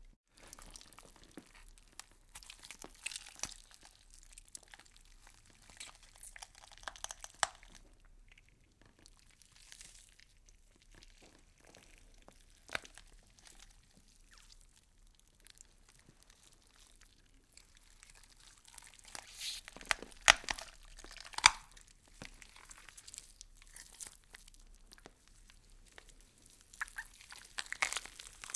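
Gore foley sound effect: irregular crunching and tearing with scattered sharp clicks, loudest in a cluster of crunches about two-thirds of the way through.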